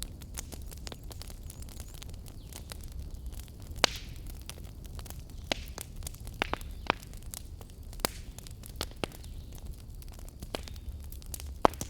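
Wood fire burning in a fireplace, crackling: a steady low rumble and hiss with frequent sharp pops and snaps, the loudest about four seconds in and near the end.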